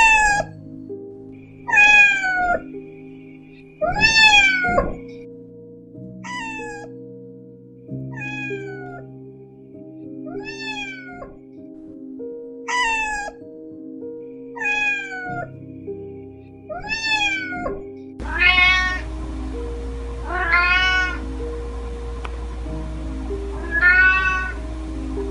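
Domestic cats meowing over soft background music, with a meow about every two seconds. About two-thirds of the way through the sound changes, and three more meows follow over a steady hiss.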